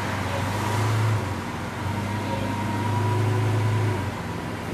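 Lamborghini Veneno Roadster's V12 engine running at low revs with a steady low hum, easing off briefly about a second in and again near the end, as the car creeps slowly up a loading ramp.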